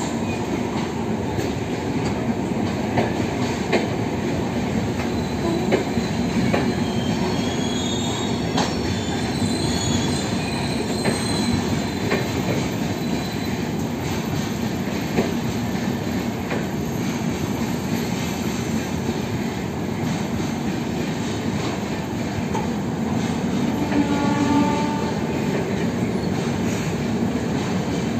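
Indian Railways LHB passenger coaches rolling past, wheels clacking over rail joints with a steady rumble. A high wheel squeal rises and fades in the first half, and a short pitched tone sounds near the end.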